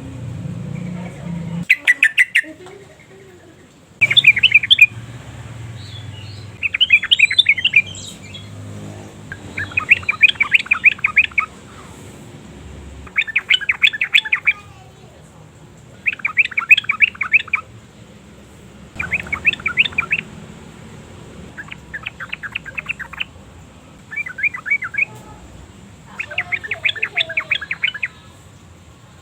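Yellow-vented bulbul singing in about ten short bursts of rapid chattering notes, each burst a second or two long, spaced a couple of seconds apart.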